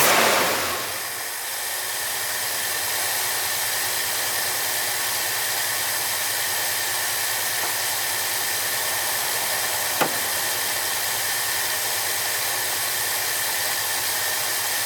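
A 1969 Ford F-250 engine on a freshly rebuilt Autolite 2100 carburetor, settling within the first second to a steady, smooth idle. There is a single sharp click about ten seconds in.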